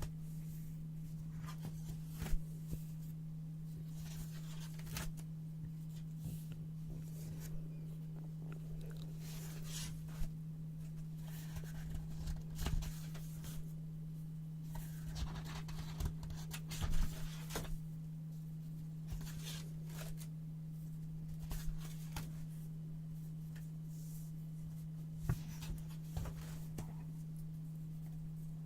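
Brown paper being cut with scissors and handled: irregular crisp snips and crackles, some sharper than others, over a steady low hum.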